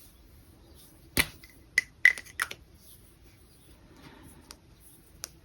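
Sharp clicks and taps of small hard objects being handled on a desk: a quick cluster of four or five about a second in, each with a brief ring, then two fainter clicks near the end.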